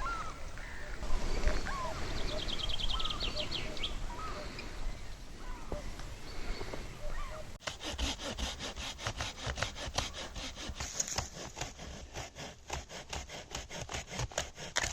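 Birds calling with short rising and falling notes and one rattling trill. About halfway in, a hand saw starts cutting wood with quick, regular strokes.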